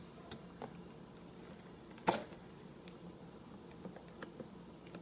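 Cardboard toothbrush box being handled and opened: a few faint light clicks and taps, with one louder tap about two seconds in.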